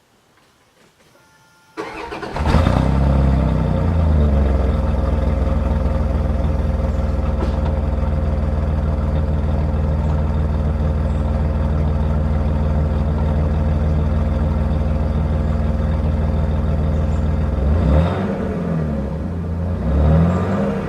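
1994 Dodge Dakota's 3.9-litre Magnum V6 starting about two seconds in, then idling steadily through its old exhaust, heard right at the tailpipe tip. Near the end it is revved several times, the pitch rising and falling.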